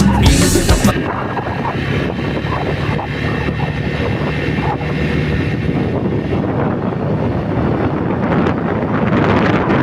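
Wind rushing over the microphone of a moving motorcycle, with the engine running steadily underneath. Music cuts off about a second in.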